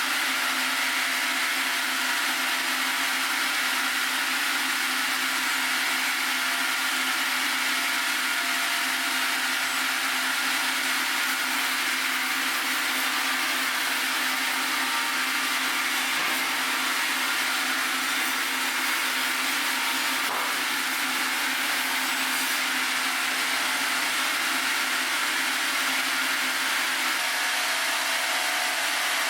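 Sawmill saw running continuously through a Kaizuka juniper log, an even, unbroken cutting noise weighted toward the high end; its tone shifts slightly near the end.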